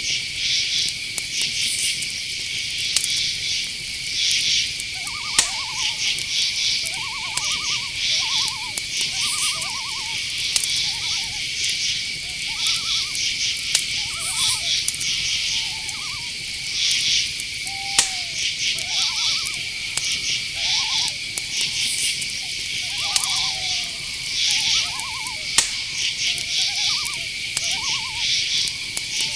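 Night-forest insect chorus: crickets chirping steadily, with a continuous high trill under rapid chirps. From about five seconds in, short calls repeat roughly once a second over it.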